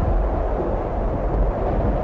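Low, steady rumble of thunder, a sound effect with no music over it.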